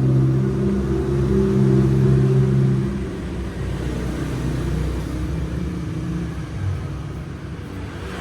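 A low, steady hum of a few deep tones, louder for the first three seconds and then fainter.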